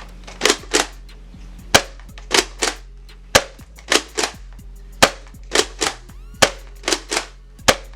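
Nerf Rival Reaper pump-action foam-ball blaster firing repeatedly, about five shots. Each sharp crack comes after a quick double clack of the pump being racked back and forward.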